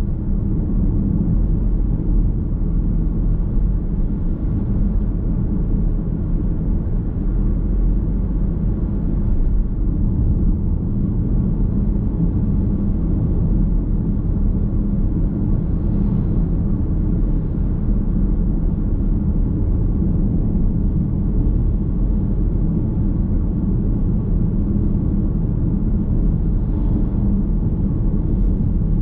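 Car driving steadily along a road, heard from inside the cabin: a continuous low rumble of road and tyre noise with a steady drone.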